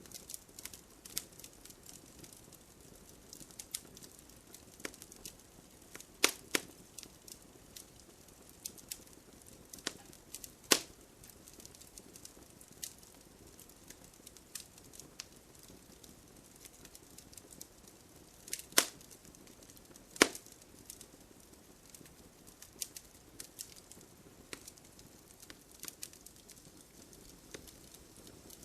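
Wood fire crackling in a fireplace: a steady low hiss with frequent small irregular crackles and a few loud sharp pops.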